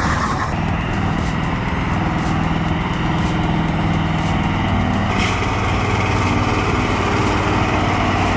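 Timber truck's engine running steadily under load, its pitch shifting a little as the throttle is worked, with a brief knock about five seconds in.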